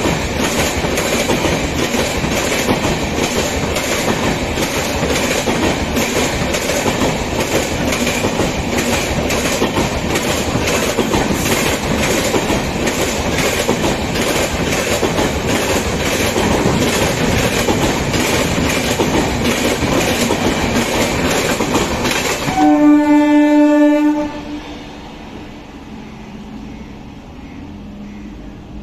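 Passenger train's coaches passing at speed, a steady rush of wheels on rails with a rhythmic clickety-clack over the rail joints. Near the end a loud horn blast sounds for about a second and a half, and then the sound drops to a quieter background.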